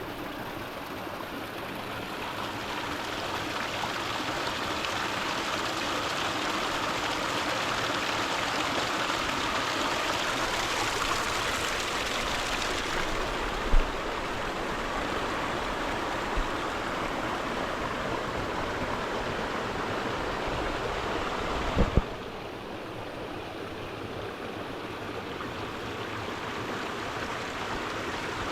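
Mountain stream rushing steadily over rocks. Brief low thumps come about halfway through and twice more a little later, after which the rush sounds duller, with less hiss.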